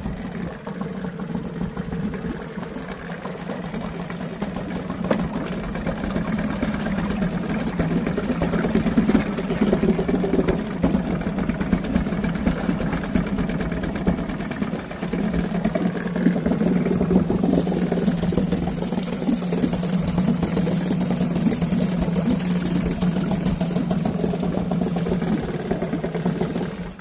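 Mariner 5 hp two-stroke outboard motor running steadily, its level swelling a little after the first few seconds, then cutting off at the very end.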